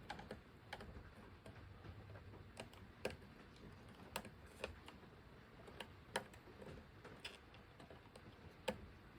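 Faint, irregular light clicks of a small Phillips screwdriver working the screws of a terminal block, snugging down sensor wires, about a dozen clicks spread unevenly.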